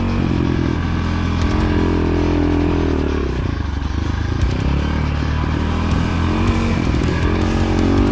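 Orion RXB250 dirt bike's 250 cc engine revving up and down as it is ridden, easing off about three seconds in and picking up again, under background music.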